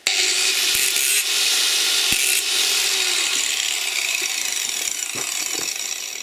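A power tool cutting a test notch into a metal part of a refrigerator compressor's motor to check for copper: a steady, high-pitched grinding that starts suddenly and fades away near the end.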